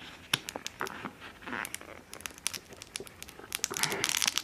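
Paper and plastic crinkling and tearing as glue mouse traps are handled and unwrapped: a run of sharp crackles that gets denser and louder near the end.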